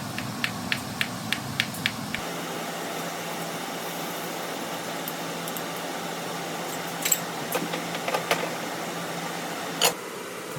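Light knocks and clicks from kitchen food preparation: a quick run of about three a second at the start, a few scattered ones later and one louder knock near the end, over a steady hiss.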